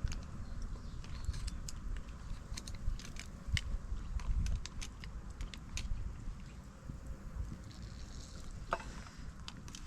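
Cooked river mussel shells clicking and clattering against each other as they are handled: many irregular sharp clicks and taps over a low rumble.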